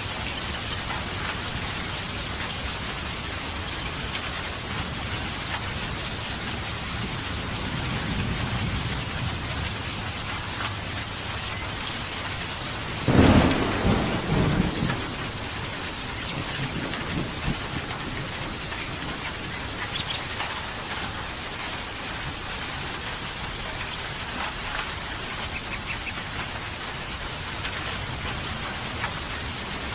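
Steady rain falling, with a soft low rumble of distant thunder about eight seconds in and a sharp, loud thunderclap about thirteen seconds in that rolls away over the next couple of seconds.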